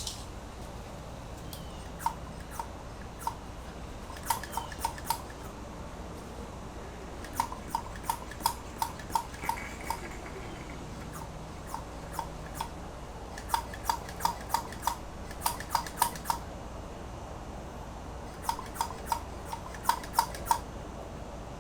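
Hand-operated vacuum brake-bleeder pump being squeezed, its handle clicking with a squeaky ring on each stroke, in runs of about three strokes a second with pauses between, drawing old brake fluid out of a motorcycle's master cylinder.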